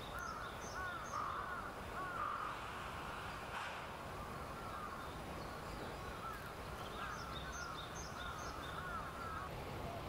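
Birds calling: rows of short, harsh notes repeated several times a second, in two bouts, with fainter high chirps above them.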